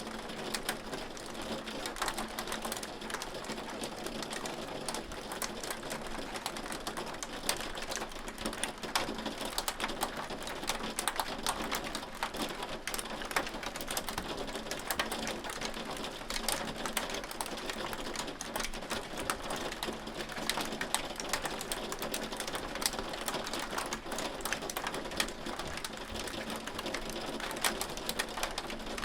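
Hail falling steadily on a hard surface: a dense, irregular patter of small sharp clicks and taps with no let-up.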